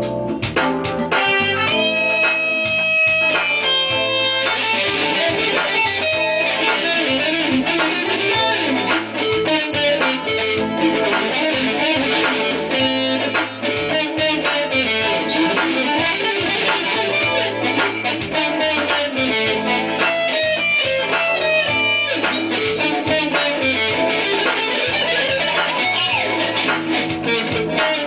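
Guitar music: rapid picked notes over a bass line, with a held chord early on before the fast playing sets in.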